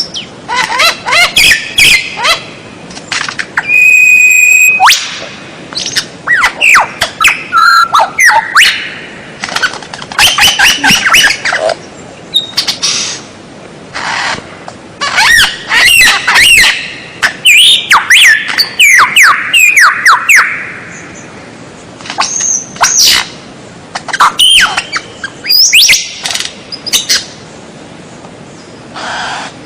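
White-rumped shama (murai batu) singing a loud, varied song of sliding whistles, rapid trills and harsh chattering notes, in phrases broken by short pauses.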